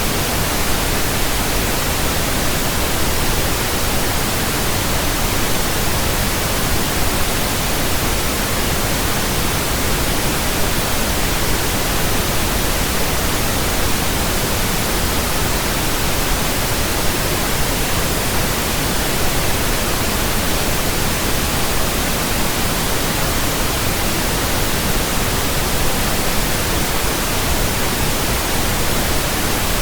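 Steady pink noise, an even hiss across the whole range, played as a burn-in signal for new speakers, headphones and earphones.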